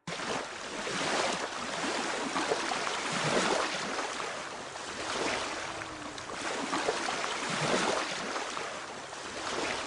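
Small waves washing onto a saltwater beach, a steady rushing noise that swells and eases every couple of seconds.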